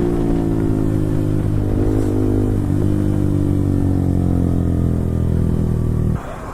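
Yamaha R15 V4's single-cylinder engine through an Akrapovic full-system exhaust, running on the move with the revs slowly falling and two brief rises in pitch around two seconds in. The engine note cuts off suddenly near the end.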